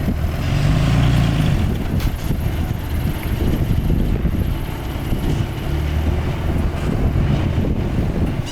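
Diesel engine of heavy earthmoving machinery running steadily, its low note swelling under load about a second in and again around six seconds.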